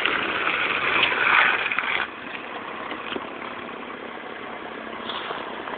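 Small mini bike or scooter engine running, louder for the first two seconds and then dropping off suddenly to a lower steady level.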